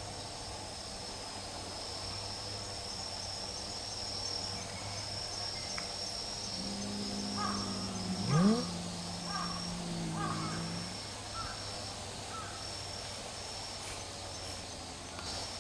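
Stray cats in a standoff: a long low yowling growl runs for several seconds from about halfway in, and a sharp rising yowl comes near the middle and is the loudest sound. Insects trill steadily throughout.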